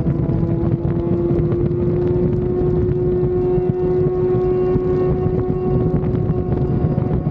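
Sport motorcycle engine running at steady revs while riding, holding one even engine tone, with wind rushing over the microphone.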